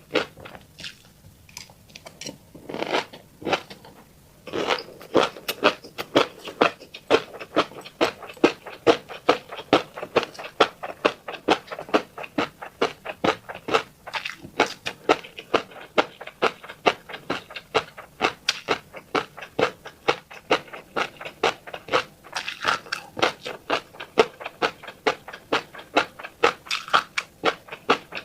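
Close-up chewing of a mouthful of fish roe: rapid wet clicks and pops, several a second, as the eggs are bitten and mashed. It is sparser for the first few seconds, then runs steadily.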